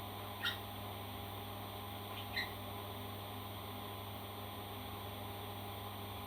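Two short, faint parrot chirps about two seconds apart over a steady low hum.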